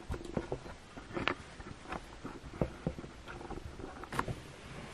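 Scattered light clicks and taps from handling plastic quick-release bar clamps and a clamped wooden block, with the clearest taps about a second in and again near the end.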